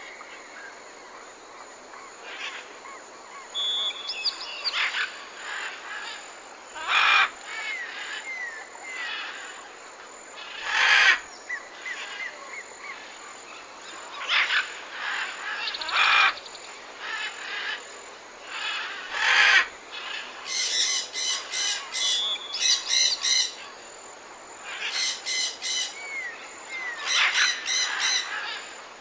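Several forest birds calling. Loud harsh calls come every few seconds, with short whistled notes in between. Later there are fast runs of rapidly repeated notes.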